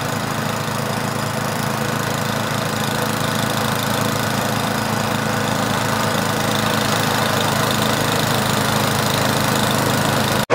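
Gas snowblower engine running steadily under load while the machine throws snow, growing slightly louder, then cut off abruptly near the end.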